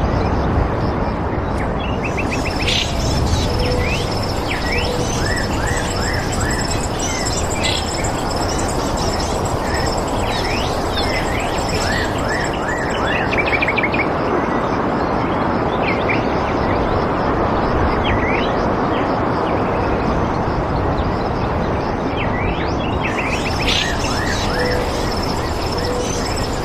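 Birds chirping with many short, quick falling notes over a steady rushing noise. A high, rapidly pulsing trill comes in about two seconds in, fades in the middle and returns near the end.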